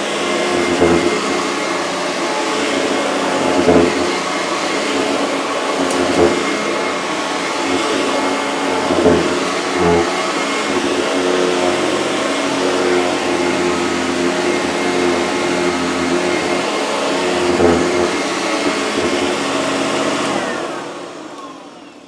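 Eureka Sanitaire commercial upright vacuum cleaner running over a rug, a steady motor whine with a few brief louder moments. It is switched off near the end and the motor spins down.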